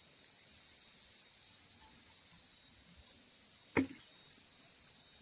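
Shrill insect chorus, a continuous high trill that swells and eases in waves. A single short knock comes near the end.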